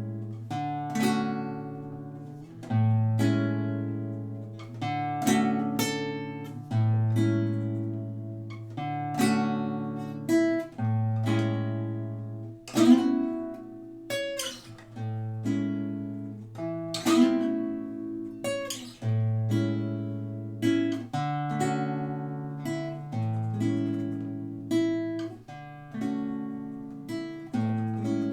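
Acoustic guitar playing an instrumental break, strummed and picked chords over a bass note that changes about every two seconds.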